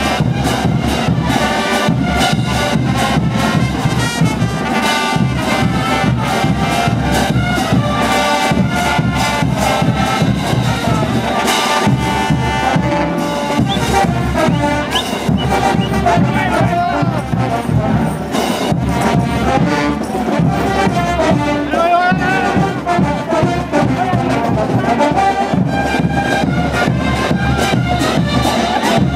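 Brass band playing diablada music, trumpets and trombones over a steady percussion beat.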